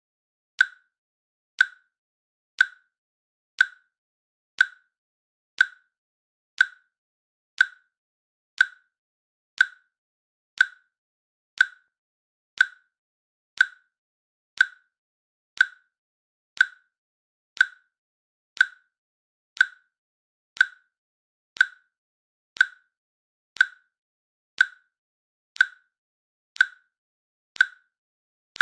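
A countdown timer's click sound: one short, sharp click every second, with silence in between.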